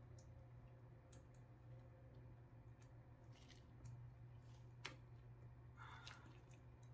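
Near silence: a faint steady low hum with scattered soft clicks and a sharper light tap about five seconds in.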